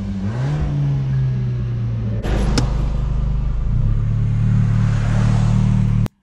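Abarth 695 70th Anniversary's turbocharged 1.4-litre four-cylinder engine running in Normal mode, not yet switched to Sport, revving about half a second in and again toward the end as the car pulls away. A sharp click about two and a half seconds in; the sound cuts off suddenly near the end.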